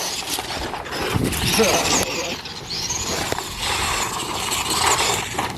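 Electric RC truck, a Traxxas Mini E-Revo, driving over dirt, its motor whine rising and falling as it speeds up and slows. Tyres crunch on the ground throughout, with a few knocks about a second in.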